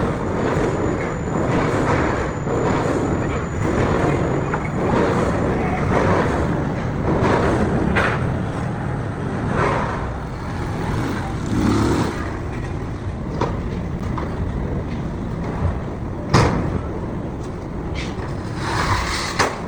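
Workshop machinery running steadily, with a few sharp metal knocks, the loudest about sixteen seconds in.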